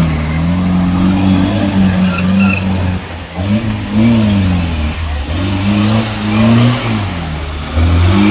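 Racing car engine revving, its pitch rising and falling several times as it accelerates and lets off, with a brief dip about three seconds in.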